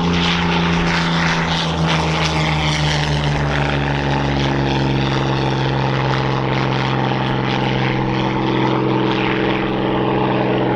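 Hispano Buchon's Rolls-Royce Merlin V12 engine and propeller at high power during a display pass, a loud, steady engine note whose pitch sinks slowly.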